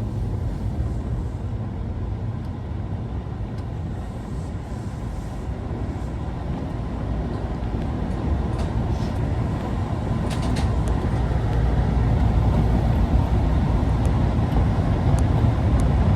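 Osaka Metro 22 series subway car running through the tunnel, heard from inside the car: a steady low rumble with a faint high steady tone, growing louder toward the end. The car is one known for an abnormal running noise.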